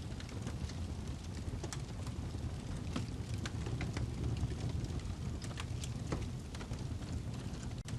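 Wood fire burning in a fireplace: a steady low rumble of flames with frequent irregular crackles and pops from the burning log.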